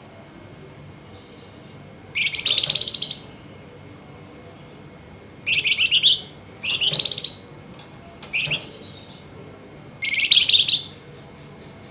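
Flamboyan songbird giving loud, rapid, scratchy trilled bursts, the 'nyerecet' call. It gives about five bursts a second or two apart, each under a second long, the first about two seconds in.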